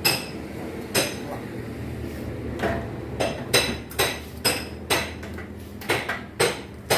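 Washing-machine panel parts being handled and fitted into their clips: a loose series of hard knocks and clatters, about a dozen, coming more often in the second half.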